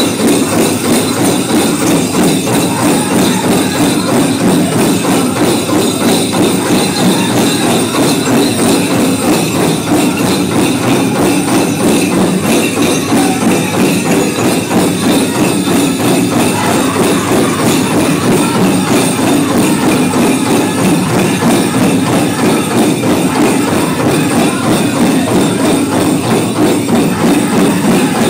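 Powwow song: a drum group singing over a steady, fast beat on a big powwow drum, with the jingling of dancers' leg bells.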